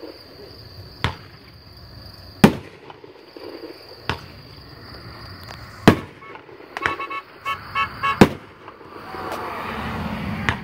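Consumer firework cake (Magnus 'Stoned To The Bone') firing shells that burst in the air: five sharp bangs, roughly one and a half to two seconds apart. A quick cluster of smaller pops comes about seven seconds in, and a hiss builds near the end.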